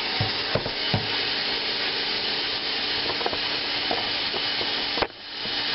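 Kitchen tap water running onto raw chicken in the sink, a steady hiss with a few light knocks of the pieces being handled. The flow cuts out about five seconds in, then builds back up.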